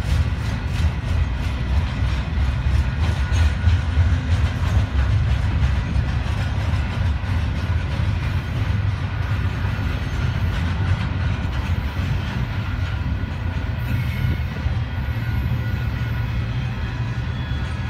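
Double-stack intermodal freight cars rolling past: a steady low rumble of steel wheels on rail, with a rhythmic clickety-clack of wheels over rail joints that is clearest in the first half and fades later.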